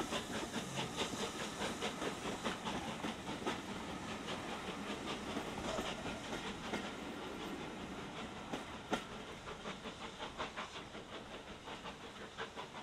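Passenger coaches of a train rolling past, their wheels clicking over the rail joints in a quick irregular rhythm, with one sharper click about nine seconds in. The sound gets a little quieter near the end as the last coach draws away.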